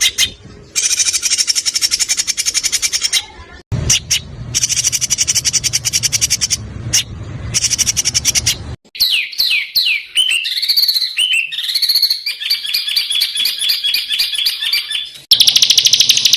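Small songbirds singing rapid, harsh trills (the 'tembakan' phrases prized in Indonesian songbird contests), in separate fast bursts that start and stop abruptly. Partway through comes a run of quick descending whistled slurs, then rapidly repeated notes, and another fast trill near the end.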